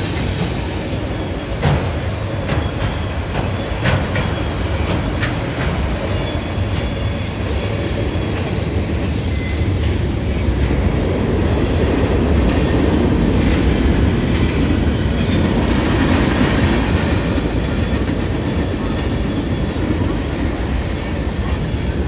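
A train rolling past, a steady loud rumble of railcars with sharp wheel clicks over the rails, growing louder about halfway through.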